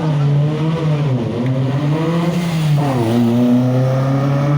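A classic car's 1600 cc engine being revved at a standstill. The pitch holds, dips about a second in, rises again, dips near three seconds and then climbs steadily.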